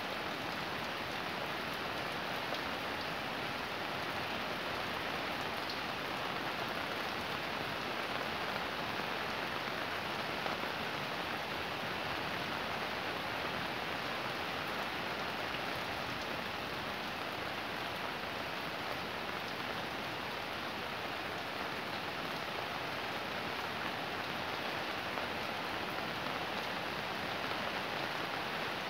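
Fairly heavy rain falling steadily: an even, unbroken hiss with a few sharper drop ticks.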